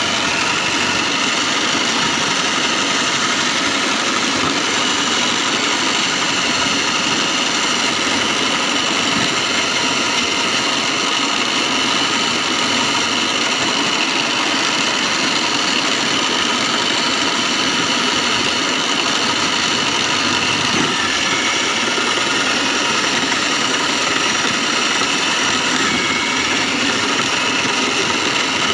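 Foam shredding machine running steadily, a constant mechanical drone with a high steady whine.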